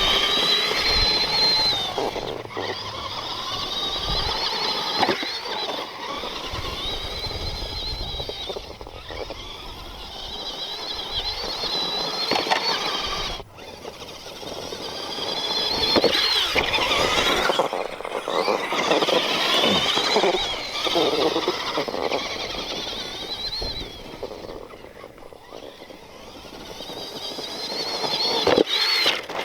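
Axial SMT10 Grave Digger RC monster truck driving hard: its electric motor and metal-gear transmission whine, rising and falling in pitch as the throttle is worked, over tyre and ground noise. The sound breaks off sharply a couple of times.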